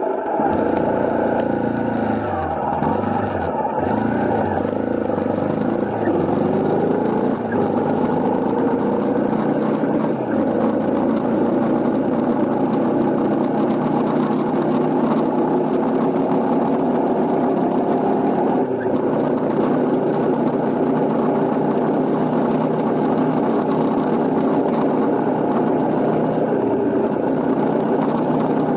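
Honda CRF250L's single-cylinder four-stroke engine under way. Its pitch rises and falls through the first several seconds as it accelerates and changes gear, then holds a steady note while cruising.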